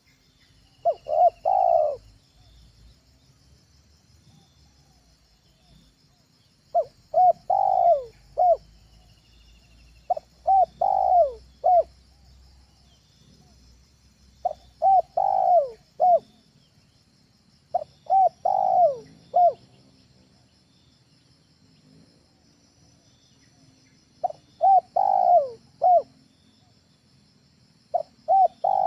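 Spotted dove (tekukur) cooing: a phrase of three or four notes, the middle one the longest, repeated seven times with pauses of a few seconds between.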